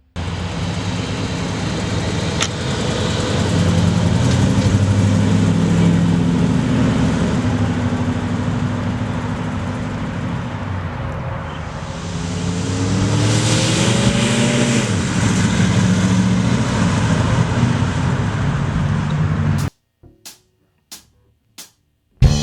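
1962 Oldsmobile Starfire's 394 cubic-inch V8 running as the car drives, over road and wind noise. A little past halfway the engine note rises steadily for a few seconds, then drops away sharply. Near the end the sound cuts off to near silence, broken by a few clicks.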